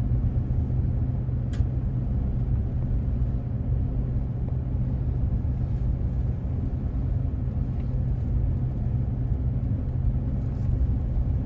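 Steady low rumble of a 3/4-ton pickup truck's engine and tyres, heard from inside the cab while driving, with one sharp click about a second and a half in.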